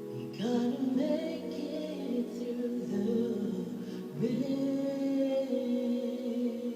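A woman singing long held, wordless notes over a musical accompaniment, scooping up into a new sustained note about half a second in and again about four seconds in.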